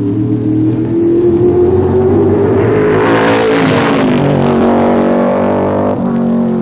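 Race car engine passing at speed: the engine note climbs, swells loudest about three to four seconds in, then drops in pitch as it goes by. The sound changes abruptly near the end.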